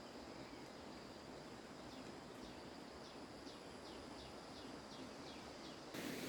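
Quiet outdoor ambience with a steady high insect drone and a bird repeating a short falling chirp about twice a second, starting about two seconds in. Near the end the background changes abruptly to a louder hiss.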